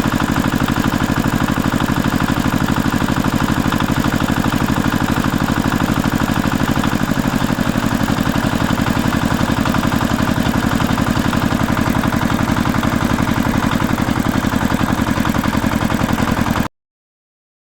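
Tractor engine running steadily at a fast, even pulse, then cutting off suddenly near the end.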